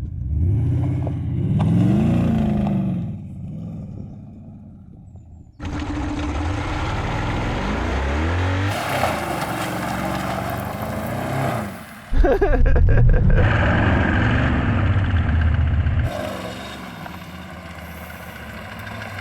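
BMW 735i's 3.6-litre V8, running with its oil drained, revved up and falling back several times. The sound drops away and returns abruptly between bursts.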